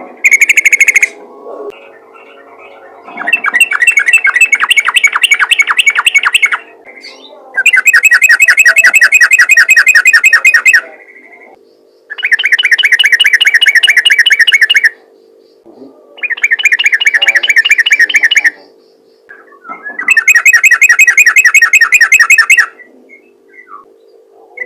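Yellow-vented bulbul (trucukan) singing in a rapid, rolling 'ropel' style. It gives repeated loud bouts of fast chattering notes, each two to three seconds long, with short pauses between, over a faint steady hum.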